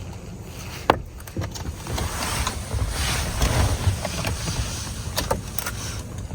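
Hands working on steering-wheel parts and connectors: a sharp click about a second in and a few lighter clicks later, over a steady low rumble and hiss.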